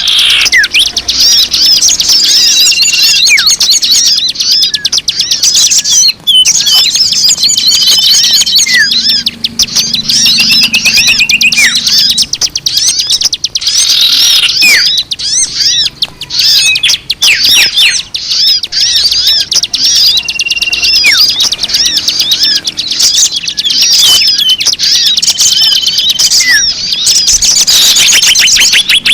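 Bird-lure recording of many small birds chirping and twittering densely and rapidly at high pitch, with short whistled notes mixed in; the same passage repeats about every 18 seconds, as a looped lure track does.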